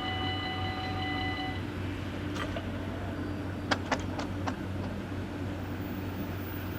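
Dutch level crossing's electronic warning bell ringing rapidly, then cutting off about a second and a half in. A few sharp clicks and knocks follow near the middle, over a steady low hum.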